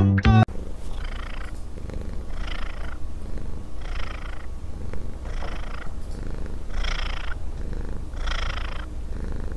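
Cat purring close to the microphone: a steady low rumble that swells rhythmically about every second and a half with its breaths.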